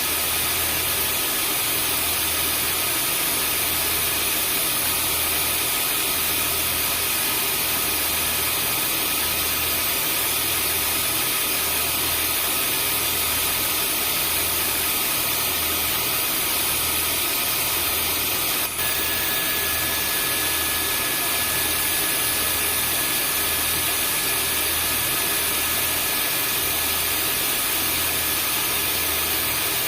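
Vacuum cleaner running steadily: an even rushing hiss with thin high whines over a slow, regular low throb. There is a brief click about two-thirds of the way through.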